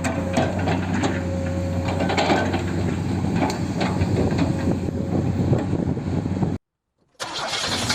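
Toy radio-controlled construction machine running, its small electric motor and plastic gearbox giving a steady hum under many small clicks and crunches of soil and stones. The sound cuts off about six and a half seconds in, and a louder run of machine noise starts about half a second later.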